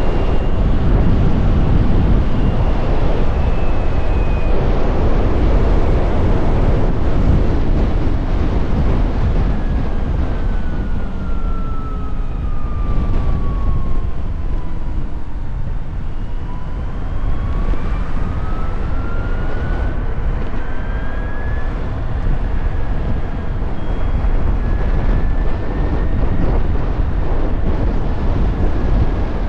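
Can-Am Pulse electric motorcycle on the move: heavy wind and road rush, with the electric motor's thin whine falling in pitch as the bike slows around the middle, then rising again as it speeds back up.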